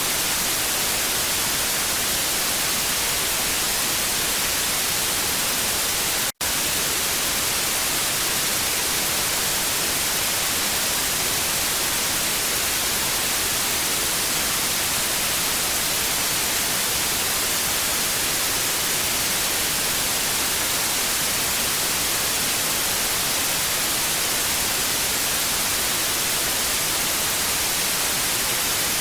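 Television static: a steady, even hiss, strongest in the highs, broken once by a split-second dropout about six seconds in.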